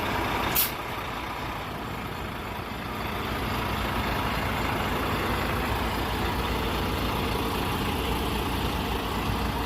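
Semi truck's diesel engine running steadily, with one short, sharp sound about half a second in.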